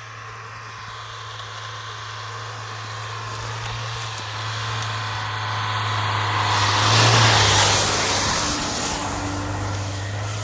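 A car's engine and tyres grow steadily louder, loudest about seven seconds in, then ease off, over a steady low engine hum.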